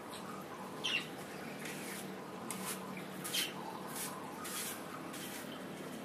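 A bird giving a short squawk-like call about a second in, followed by a run of brief scratchy noises through the middle, over a steady low hum.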